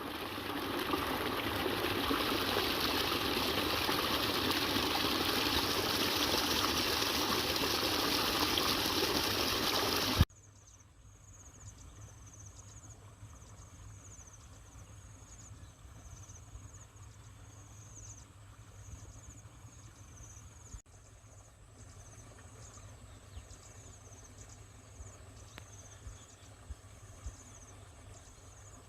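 Floodwater rushing and pouring across a washed-out road, a steady loud rush that cuts off abruptly about ten seconds in. After it, much quieter insects chirping in an even repeating pattern over a low hum.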